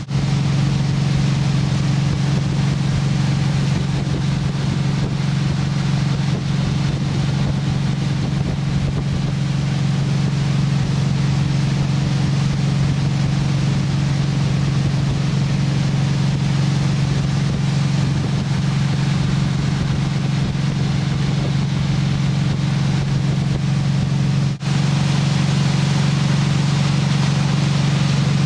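Motorboat engine running at a steady speed while towing a water skier, a constant low drone mixed with wind and water rush. The sound drops out briefly once about 24 seconds in.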